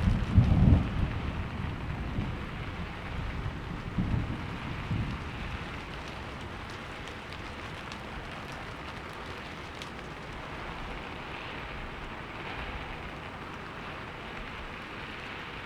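Steady heavy rain falling, with a rumble of thunder at the start that rolls on and fades away over the first few seconds, leaving the rain alone.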